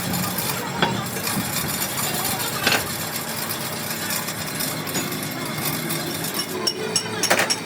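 Workshop noise: an engine running steadily in the background, with a few sharp metal clinks.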